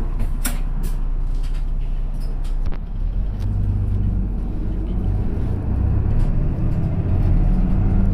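Diesel engine and road noise of a route bus, heard from inside the cabin while it drives. There are a few sharp clicks in the first second, and the engine note grows heavier and louder about three seconds in.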